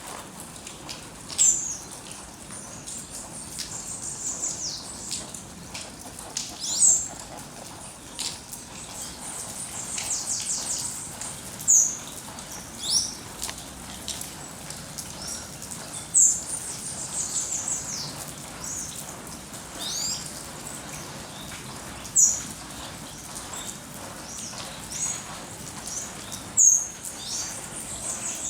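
Songbirds singing: high, thin notes and rapid trills, with a loud, sharp, downward-sliding note coming back every five seconds or so.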